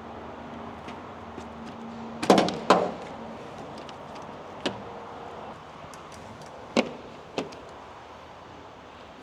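Several sharp knocks and clicks. The two loudest come close together a little over two seconds in, and single ones follow near the middle and later. A faint steady hum stops when the first knocks come.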